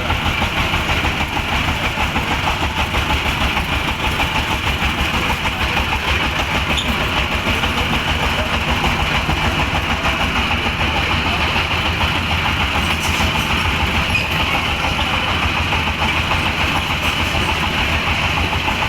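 A motor vehicle's engine running steadily with a fast, even low throb.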